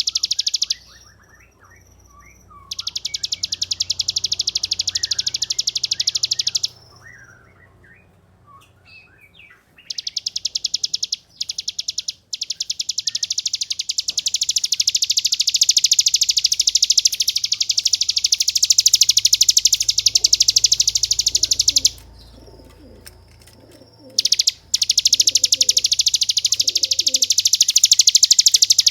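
Ciblek gunung (a prinia) singing its 'ngebren' song: long, very rapid rattling trills that run for several seconds at a time. Short pauses between the trills hold softer scattered chirps. The longest trill lasts about ten seconds, through the middle of the stretch.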